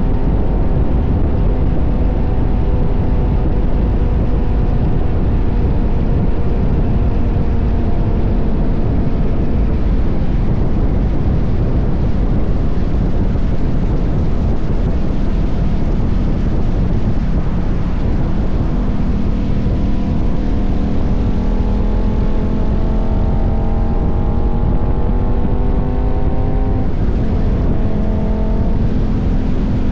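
KTM 1190 Adventure's V-twin engine running under way, over a heavy low wind rumble. Its pitch sinks slowly over the first ten seconds, climbs steadily from about twenty seconds in, then falls sharply near the end.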